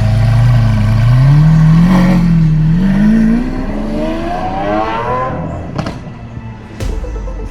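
A car engine accelerating, its pitch climbing, dipping briefly about two seconds in, then climbing again before fading away. Two sharp clicks near the end.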